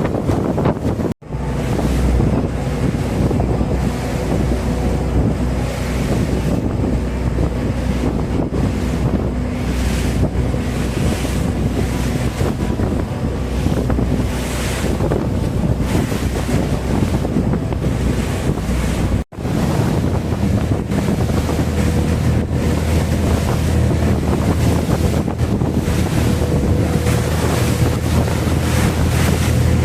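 Wind buffeting the microphone on a moving boat, with water rushing and a steady low engine hum underneath. The sound breaks off sharply twice, about a second in and about two-thirds of the way through.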